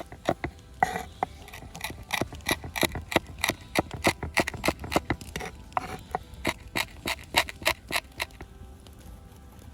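Quick, regular scraping strokes, about four a second, as a knife works the skin off a frozen muksun.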